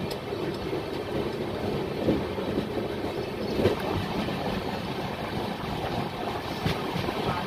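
Passenger train coach rolling slowly on the track: a steady rumble of wheels on rail with a few sharp knocks, heard from an open coach door with some wind on the microphone.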